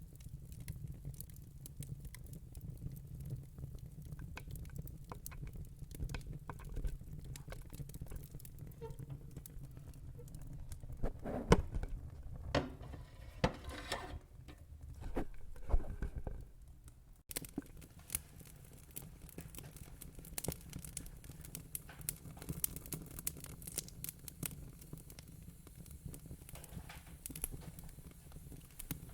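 Wood fire in a fire pit crackling, with dense small pops over a steady low rumble and a run of louder pops near the middle.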